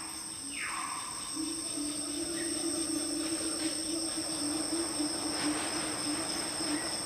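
Tropical rainforest insects droning in steady, high-pitched tones. A brief falling call sounds near the start, and a lower steady drone joins about a second and a half in.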